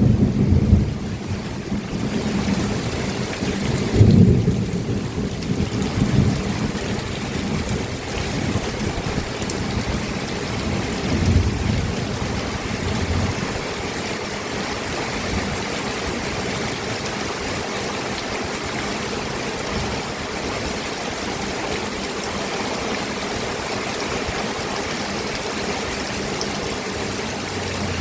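Steady heavy rain, with rolling thunder rumbling through the first half: loudest at the very start and again about four seconds in, then fading out a little before halfway, leaving only the even hiss of the rain.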